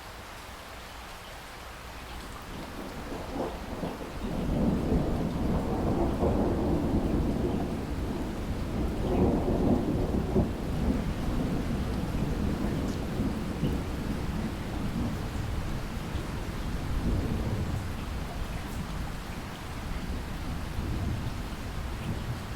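Steady rain with a long roll of thunder: the low rumble builds about three seconds in, is loudest for several seconds, then rolls on and slowly fades.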